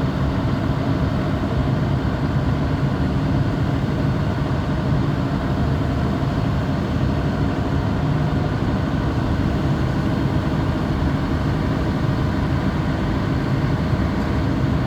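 Heavy engine on a land drilling rig running steadily at a constant speed, with most of its sound low down.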